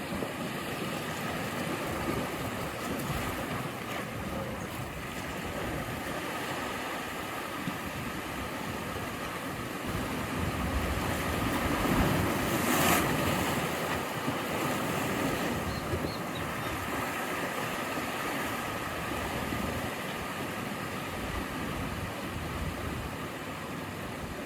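Sea waves washing in: a steady rush of surf, with one wave swelling and breaking to its loudest about halfway through, then falling back.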